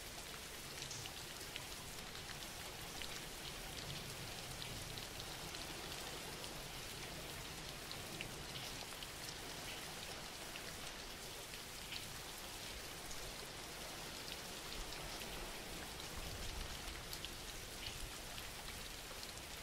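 Steady background recording of rain falling, an even soft hiss with faint drop ticks.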